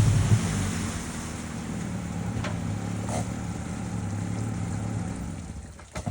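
Lada 2105's four-cylinder engine running with a steady low note that fades away near the end, followed by a short knock.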